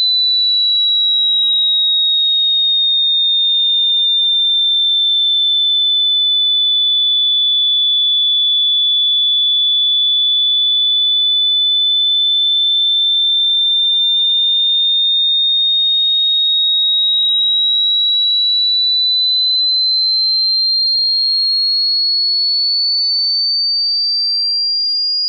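A single high-pitched pure sine tone imitating tinnitus ringing, slowly sinking a little in pitch and then gradually rising higher through the second half.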